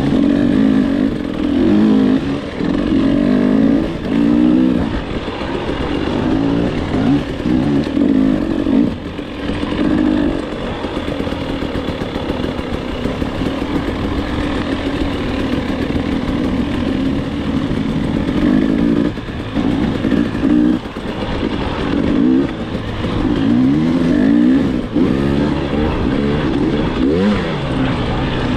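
KTM enduro dirt bike engine revving up and down over and over as the throttle is worked, the pitch climbing and falling, with a few short dips where the throttle is shut off.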